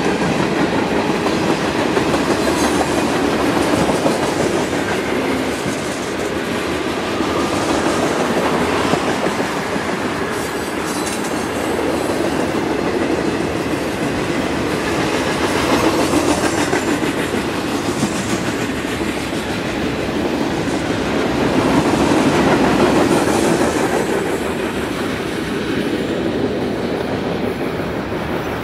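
Freight train cars (tank cars, covered hoppers and boxcars) rolling past on the rails. The sound swells and eases as the cars go by, then fades near the end as the last car clears.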